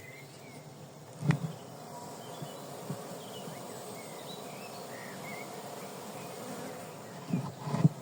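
Honeybees buzzing steadily in a dense hum, a mass of bees being checked for their queen. A sharp knock sounds about a second in, and a few more knocks come near the end.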